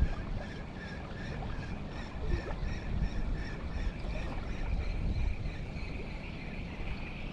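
A small boat's engine running steadily with a high whine over a low rumble, and wind buffeting the microphone.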